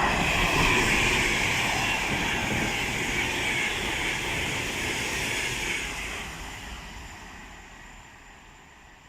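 A train passing through the station at speed: a loud rushing noise that peaks about a second in, holds for several seconds, then fades away.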